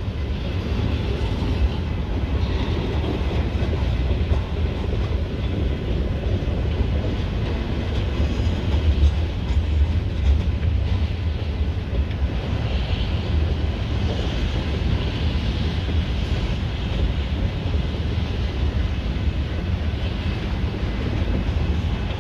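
Freight train of pulpwood log cars rolling slowly through a road crossing: a steady low rumble of wheels on the rails.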